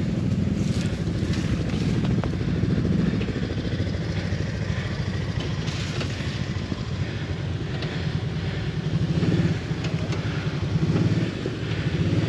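ATV engine running at low speed on a rough trail, its revs rising and falling slightly.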